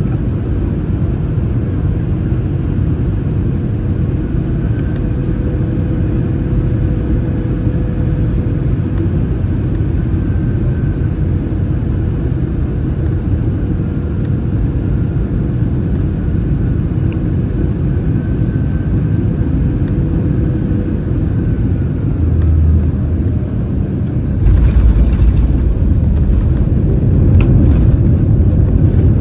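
Airbus A319 cabin noise: a steady rumble of the CFM56 engines and airflow, with a faint whine. Near the end comes a brief low thump, and a couple of seconds later the rumble suddenly gets louder, with rattling in the cabin.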